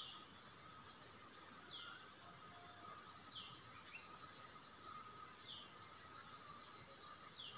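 Faint bird chirps: a short falling note repeated about every second and a half to two seconds, over a faint steady high whine.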